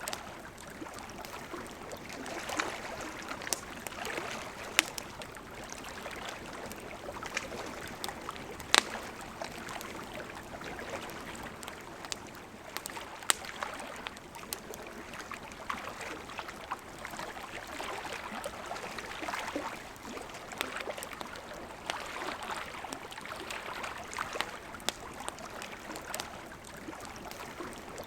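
Campfire crackling with scattered sharp pops over the steady babble of a flowing river; the loudest pop comes about nine seconds in.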